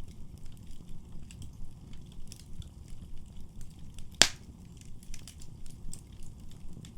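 Wood fire burning in a fireplace: a low steady rumble with scattered small crackles, and one loud sharp pop a little over four seconds in.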